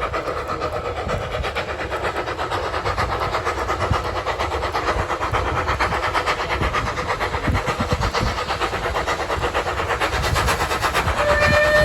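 A heritage railway train running close by with a fast, even rhythmic beat. Just before the end, a steady whistle note starts sounding.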